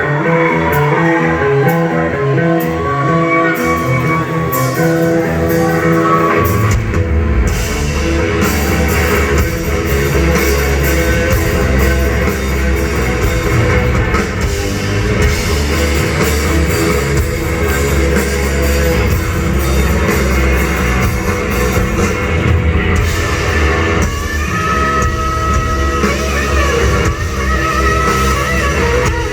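Live rock band playing loudly: an electric guitar line carries the first few seconds with little bass under it, then about six seconds in heavy bass and drums come in and the full band plays on.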